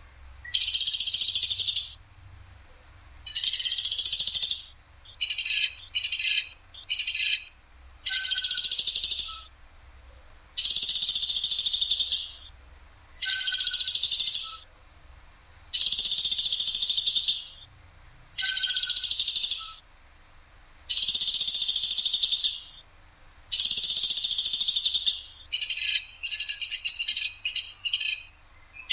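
Platuk sampit woodpecker giving loud, harsh, sharp rattling calls, each about a second long, repeated every two to three seconds, with a few short rapid calls strung together.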